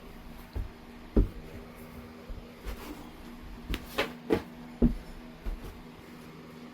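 Flintknapping on low-grade heat-treated Oregon jasper: a series of sharp, irregularly spaced clicks and knocks as flakes are struck or pressed off the stone, the loudest about a second in and near five seconds, over a faint steady hum.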